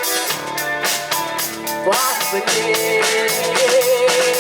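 Live rock band playing an instrumental passage between sung lines: drum kit with bass drum and guitar, and a long held melody note with a slight wobble from about halfway.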